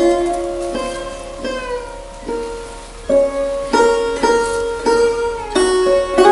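Music on a plucked string instrument, single notes and chords picked in turn, each ringing and fading before the next.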